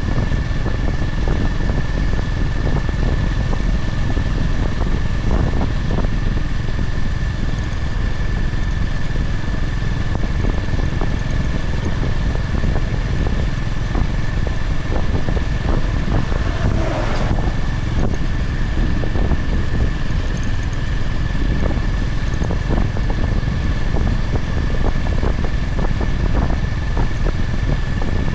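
Honda GB350's air-cooled single-cylinder engine running steadily under way, with wind noise on the microphone and a steady high-pitched tone above it.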